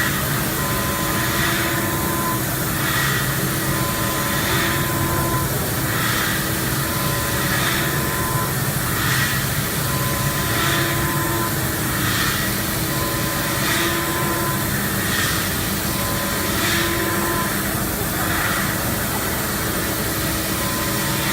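Matsuura MX-330 five-axis machining centre milling in tangent plane passes: a steady machine noise with tones that switch on and off in a regular cycle, and a cutting swish about every second and a half as the tool sweeps back and forth.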